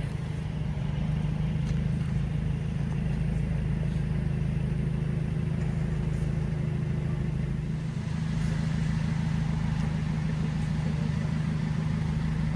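Car engine idling steadily, an even low pulsing note with a brief dip about eight seconds in.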